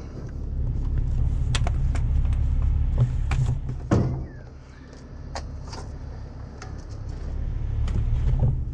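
A heavy truck's engine running, its low rumble swelling for about four seconds, dropping off suddenly, then building again near the end, with scattered metallic clanks and clinks over it.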